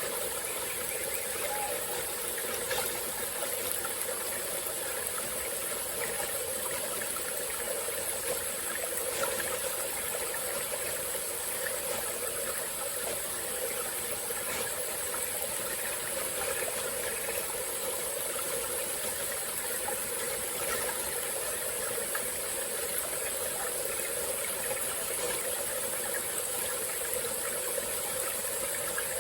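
A small forest stream flowing steadily, over a constant high-pitched drone of insects.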